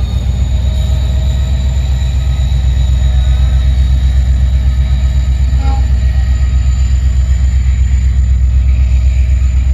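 Diesel-hauled passenger train coaches rolling past close by: a loud, steady deep rumble with an even pulsing beat and a faint high whine.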